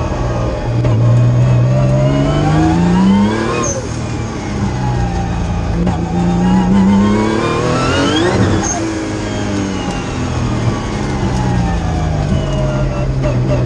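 Nissan March race car's engine heard from inside the cabin, revving up hard twice, each climb dropping off sharply at its peak about four and eight seconds in, then easing down and rising again near the end.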